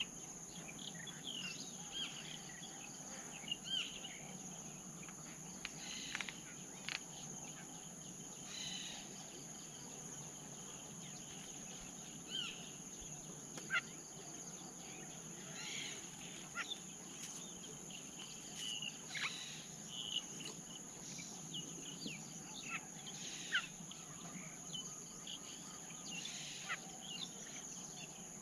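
Forest ambience: a steady high-pitched insect drone, with short bird chirps and ticks scattered throughout.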